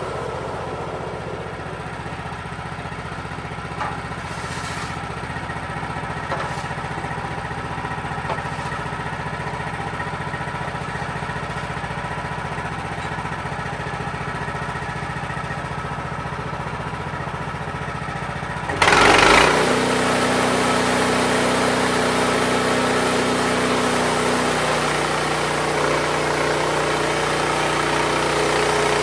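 Wood-Mizer LX55 sawmill's engine running steadily at a low speed, then about two-thirds of the way in a sudden loud burst as it throttles up, after which it keeps running louder and rougher.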